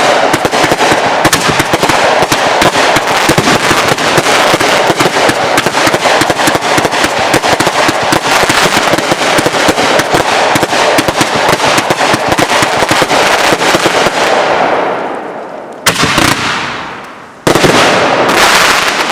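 Consumer fireworks going off: a long, rapid run of sharp crackling bangs, like a string of firecrackers, that fades out after about fifteen seconds. Two louder blasts follow near the end, each trailing away.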